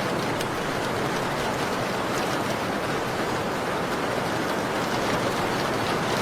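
Steady rain on a window, an even hiss with faint scattered ticks.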